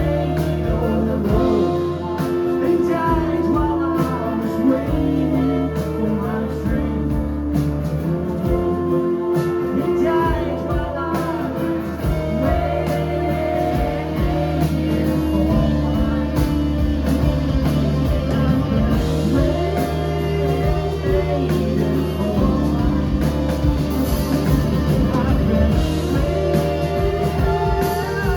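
Live rock band playing an instrumental break: guitars over a steady bass line and drums.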